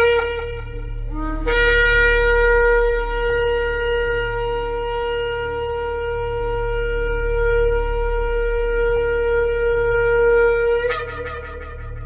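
Shofar (ram's horn) being blown. One blast ends just after the start. After a brief rising note, a long, steady blast of about nine seconds follows, which breaks upward in pitch at its end and fades. A low steady hum lies underneath.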